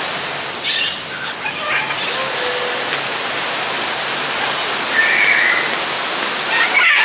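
Steady rushing of falling water, such as a waterfall or water feature, with a short high call about five seconds in.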